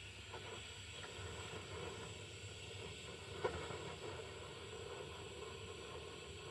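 Faint steady hiss and low hum of workshop background noise, with one light tap about three and a half seconds in.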